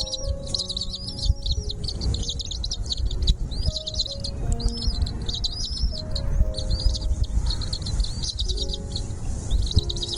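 Small birds chirping in rapid, high-pitched runs that keep going almost without pause, with short breaks about six and eight seconds in. Soft background music with held notes plays underneath.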